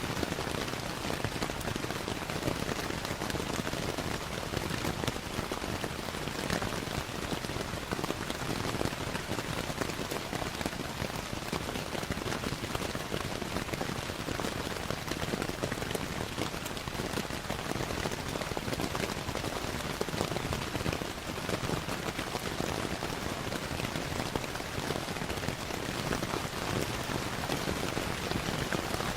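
Steady rainfall with a crackling wood fire mixed in: an even hiss of rain with many small sharp crackles and drop ticks scattered through it.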